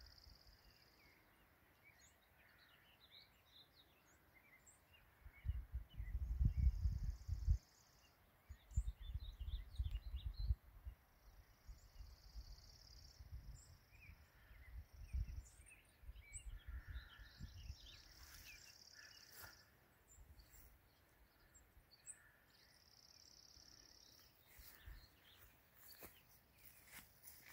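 Wild birds chirping in a mountain meadow, one repeating a short high trill every few seconds. Two low rumbles on the microphone, about five and nine seconds in, are the loudest sounds, and a few clicks come near the end.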